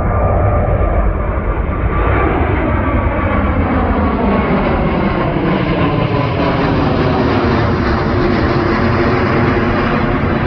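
Jet airliner's engines passing close by: a loud, steady roar with whining tones that slowly slide down in pitch.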